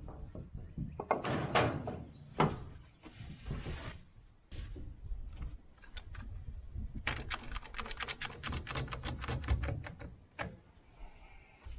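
Knocks and clatter, then a quick run of sharp clicks, about seven a second, lasting roughly three seconds past the middle.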